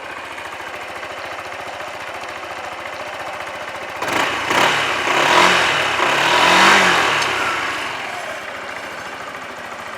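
2018 Yamaha Majesty S scooter's single-cylinder four-stroke engine idling, blipped with the throttle a few times about four seconds in, the revs rising and falling back to idle. The seller describes the engine as in good running order.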